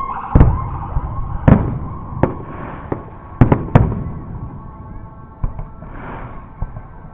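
Aerial fireworks bursting: a series of sharp bangs, roughly one a second, loudest in the first four seconds and sparser after. A steady high tone with a brief wavering glide at the start runs underneath.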